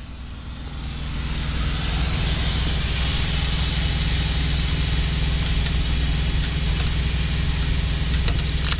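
Kenworth W900 truck's diesel engine idling steadily, with a steady hiss that swells over the first couple of seconds.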